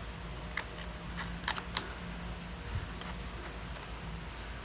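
Light, sharp metal clicks of a socket-adapter bit and socket being handled and snapped into an impact gun, several in quick succession about a second and a half in and scattered after, over a faint steady low hum.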